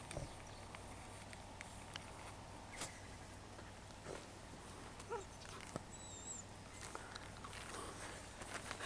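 Faint outdoor background with scattered light clicks and rustles, typical of a dog moving about, and a short wavering high chirp about six seconds in.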